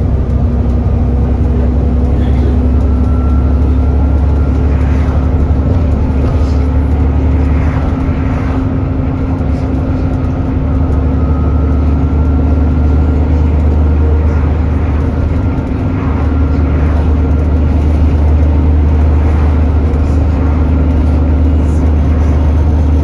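Alexander Dennis Enviro400 double-decker bus running, a loud steady engine drone with a steady whine above it, the loud 'hoover' noise of a bus that is overheating.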